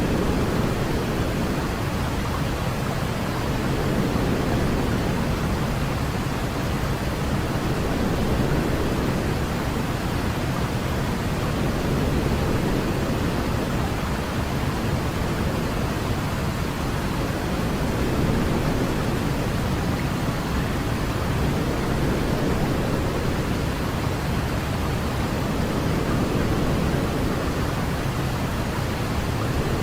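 Steady sleep noise for a baby: an even hiss heavier in the low end than the high, gently swelling and easing every four or five seconds.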